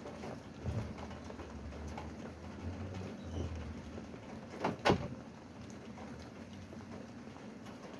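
Rain pattering steadily, with scattered drips and taps and a sharp double knock about five seconds in.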